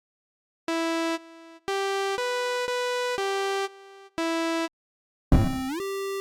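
Buzzy 8-bit chiptune synth melody: a short run of steady beeping notes, some followed by a fainter echo. Near the end a noisy blast slides up in pitch into a held note.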